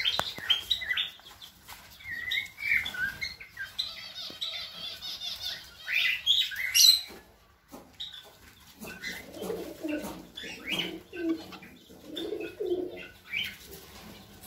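Birds calling: short, high chirps through the first half, then lower cooing calls repeated from about nine seconds in, with some fluttering.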